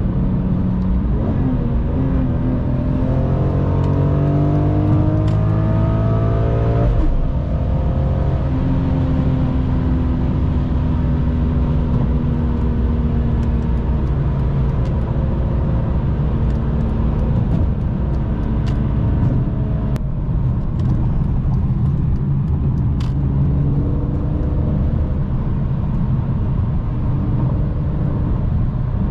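Car engine pulling under acceleration, its pitch rising for several seconds, then dropping abruptly about seven seconds in at a gear change, followed by steady running with mild rises and falls.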